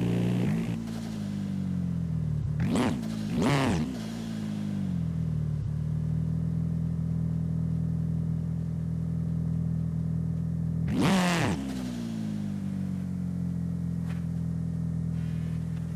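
Simulated car engine in a driving video game, running at a steady pitch. It has brief sharp swells where the pitch bends up and falls back: twice around three seconds in, and once about eleven seconds in.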